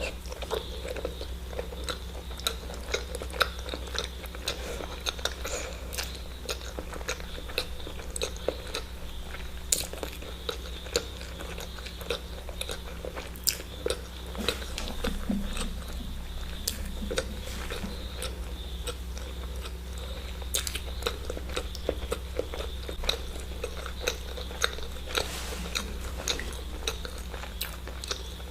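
Close-up eating sounds: a person biting and chewing eggs, with many short wet clicks and smacks, over a steady low hum.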